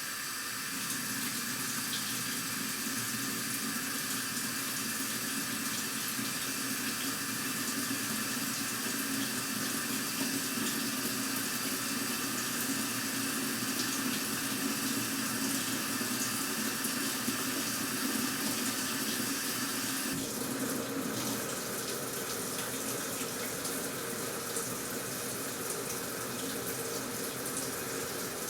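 Water running steadily into the tub of an AQUA washing machine as it fills. The sound of the flow changes about twenty seconds in.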